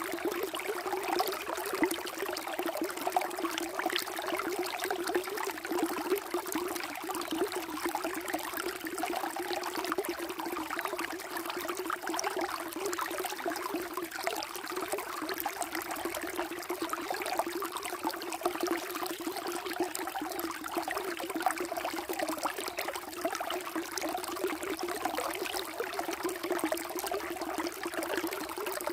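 Water flowing and trickling steadily, a continuous rushing with a lower burble beneath it.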